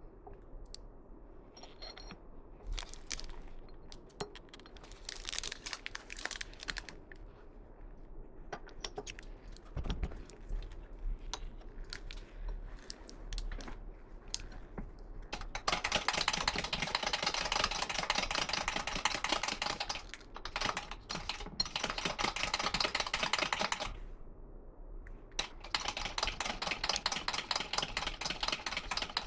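Scattered clicks and knocks of parts being handled. Then rapid, even mechanical clicking in two long runs of several seconds, the first starting about halfway through, with a short pause between them.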